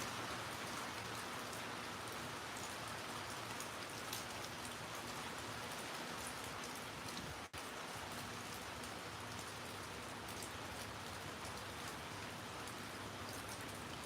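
Steady rain falling, with scattered drops tapping. The sound cuts out for an instant about halfway through.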